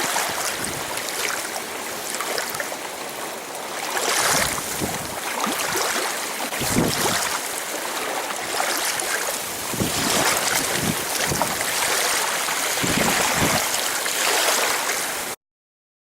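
Wind blowing in a snowstorm, a loud rushing hiss that rises and falls in gusts, with a few dull thumps; it cuts off abruptly near the end.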